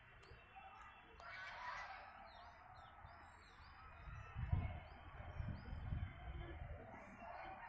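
Small birds chirping in short repeated calls, with a low rumble swelling for a couple of seconds about halfway through.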